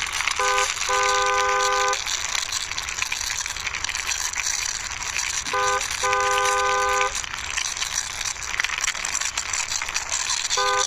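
Car horn honking: a short beep then a long one, the same pair again about halfway through, and another short beep at the end. Under it runs a continuous rattling whir of a plastic toy truck's wheels and gears being pushed along by hand.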